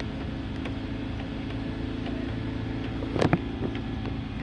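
Lawn mower engine running steadily in the background, with a brief sharp knock about three seconds in.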